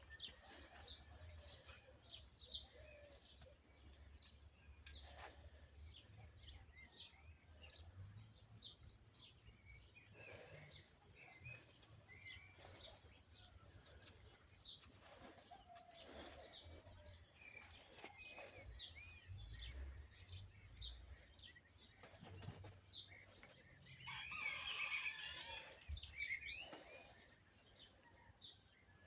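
Faint chirping of small birds: many short, high chirps repeating throughout, growing denser and louder for a couple of seconds near the end.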